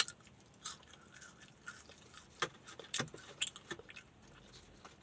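A person chewing French fries, with irregular soft mouth clicks and smacks.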